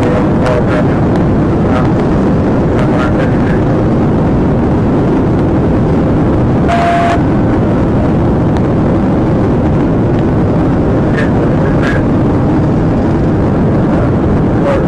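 Loud, steady road, wind and engine noise of a police patrol car driving at speed, heard from the cabin. A few short clicks are scattered through it, and about seven seconds in there is a brief burst of noise with a short beep.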